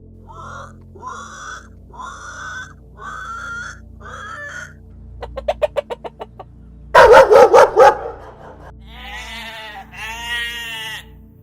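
Chickens calling: a series of five short rising clucks, then a quick run of clicking notes. A loud pulsed cackle follows about seven seconds in, and two longer drawn-out calls come near the end.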